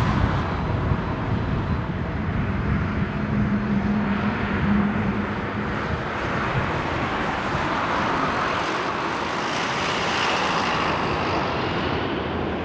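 Jet airliner engines: a steady loud rush, with a low hum in the first seconds and a higher hiss swelling about two-thirds of the way through.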